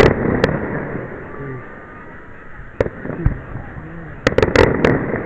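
Fireworks bursting: a bang at the start and another half a second later, a single bang near three seconds, then a quick run of several bangs about four to five seconds in.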